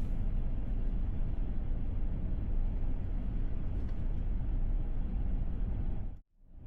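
Steady low road and tyre rumble inside the cabin of a Tesla Model S driving on wet mountain asphalt. It cuts out suddenly for about half a second near the end, then returns.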